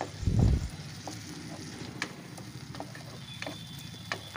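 Onion, ginger-garlic paste and tomato paste frying in oil in a nonstick pan: a steady sizzle with a spatula scraping and tapping the pan, and a dull low thump about half a second in.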